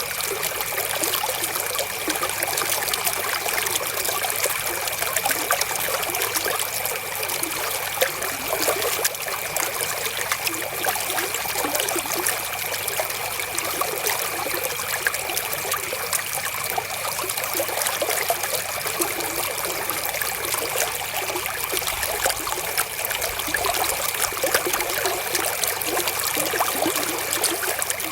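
River water flowing and trickling in a steady, unbroken babble.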